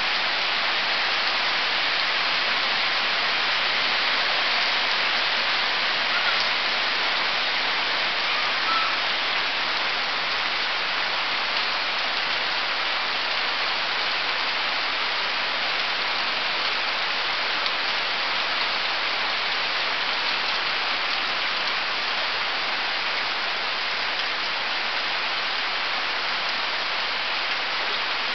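Steady rain falling on wet ground and puddles, a continuous even hiss; not hard rain.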